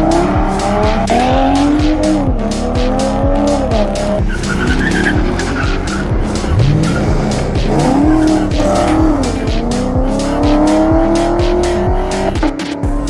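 A car engine revving hard, its pitch climbing and dropping back again and again, over loud music with a heavy, regular beat.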